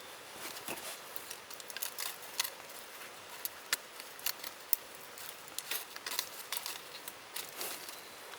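Campfire crackling: irregular sharp pops and ticks from burning firewood over a steady hiss.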